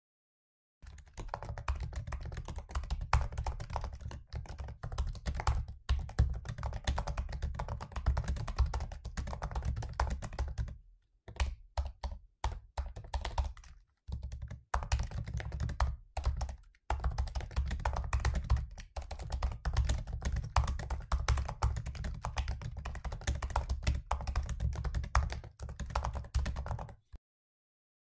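Typing on a MacBook laptop keyboard: quick, uneven runs of key clicks, broken by a few short pauses.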